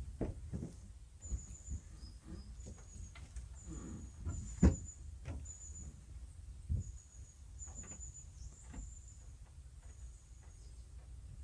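Scattered knocks and clicks from a sailboat's lines and rigging being handled, with one loud knock about halfway through. Short high-pitched chirps or squeaks repeat throughout over a low rumble.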